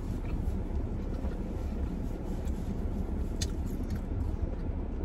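Someone chewing a mouthful of chicken shawarma pita, with a few faint wet clicks of eating, over a steady low rumble in the background.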